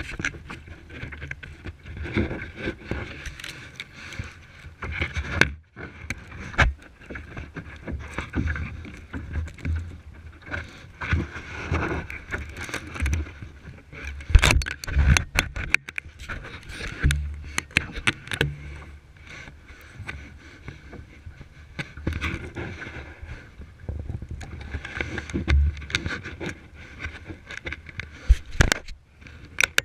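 Kayak being paddled: water splashing and sloshing around the boat, with scattered sharp knocks and bumps.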